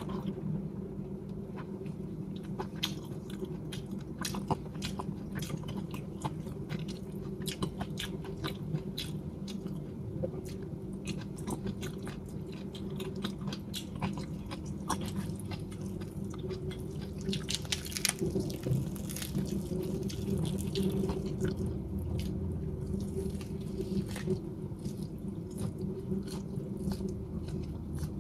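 Close-up chewing and biting of salted chicken (gà ủ muối) with its skin, with many sharp little mouth clicks and smacks throughout.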